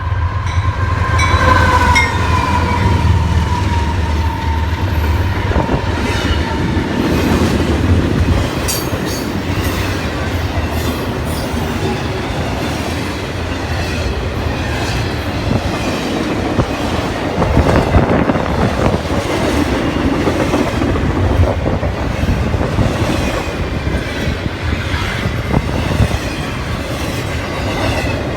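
CSX intermodal freight train passing close by: the deep hum of its diesel locomotives at first, then the cars rumbling and clattering over the rail joints. A high tone slowly falls in pitch during the first few seconds.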